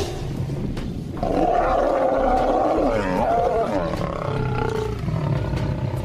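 Male lion growling in a face-off with another male, a loud rasping growl starting about a second in and wavering in pitch as it goes on.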